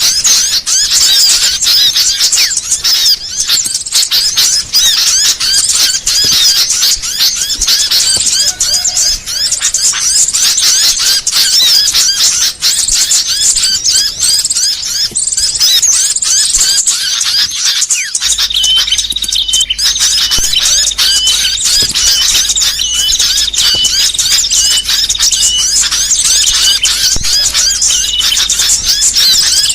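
Dense, rapid chirping and twittering of small songbirds: a masteran mix of small-bird calls used for training and luring birds. About 18 s in the recording changes, and a repeated high note a little more than once a second joins the chirping over a low hum.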